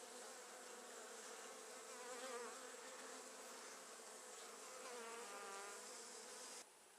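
Honey bees buzzing around an open hive: a faint, steady hum, with a bee passing closer twice, its pitch wavering. It cuts off abruptly near the end.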